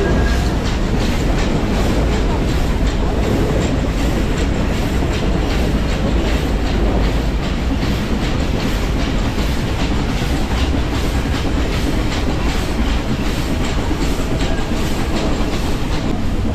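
Nilgiri Mountain Railway toy train running steadily, its wheels clicking in an even rhythm over the rail joints above a continuous rumble.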